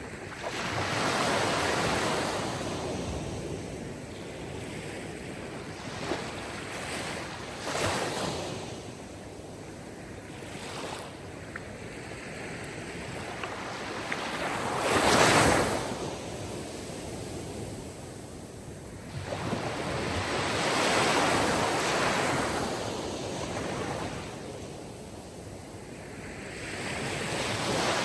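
Sea waves surging and washing ashore in slow swells, about one every five or six seconds, the loudest about halfway through.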